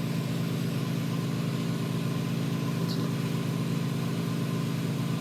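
Steady hum of running shop machinery with an electric motor, with a faint click about three seconds in.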